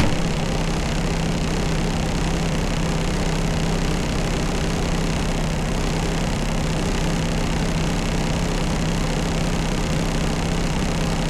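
Heavy diesel truck engine idling steadily: a constant low hum under an even hiss.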